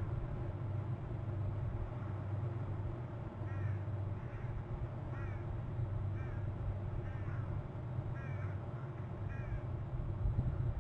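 A bird calling: a series of about seven short calls, each rising then falling in pitch, roughly one a second, starting a few seconds in. A steady low hum runs underneath.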